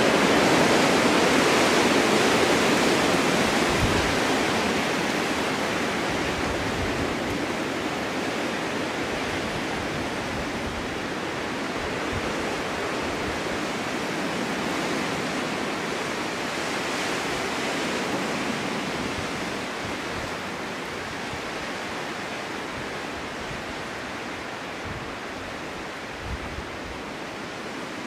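Snowstorm wind rushing steadily. It swells in a gust over the first few seconds, then slowly eases off, with a low rumble now and then.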